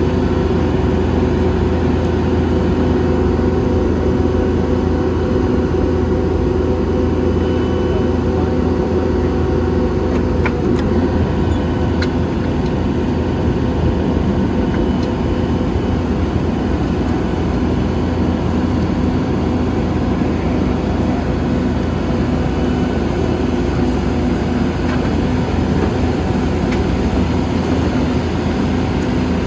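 Horizontal directional drilling rig's engine running steadily under load while it pulls the drill rods back in.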